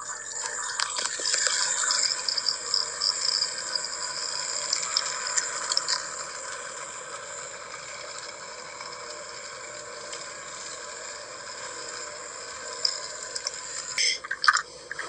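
Racing-game sound effects of a toy train speeding along its track: a steady rushing noise with scattered clicks, louder for the first few seconds, easing off, then rising again near the end.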